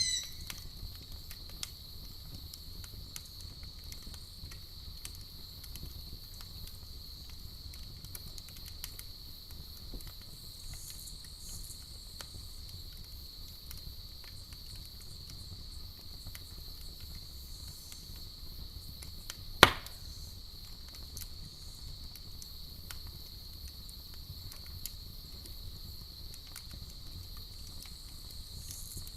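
Campfire crackling with scattered small pops and one loud sharp pop about two-thirds of the way through, over a steady high-pitched cricket trill.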